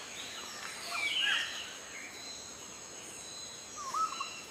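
Faint outdoor nature ambience with a few short, soft bird chirps scattered through it.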